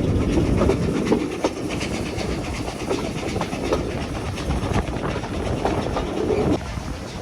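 Heritage steam train's carriage wheels running over the rails, a steady rumble with irregular clicks and clacks from the rail joints. The rumble drops in level about six and a half seconds in.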